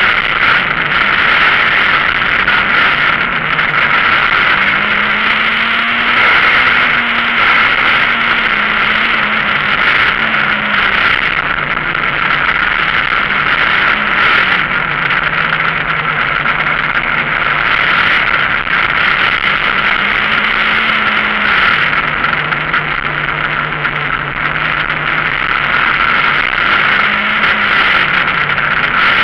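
Citroën Saxo VTS rally car's four-cylinder engine heard from inside the cabin, driven hard: the engine pitch climbs and drops again and again as it is revved out and shifted through the gears between corners.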